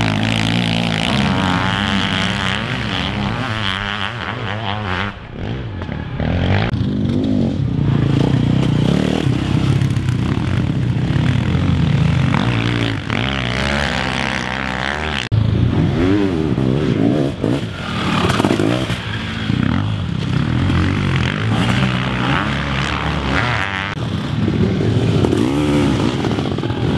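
Several sidecarcross outfits' motorcycle engines revving and accelerating, their pitch repeatedly rising and falling as the riders open and close the throttle and change gear.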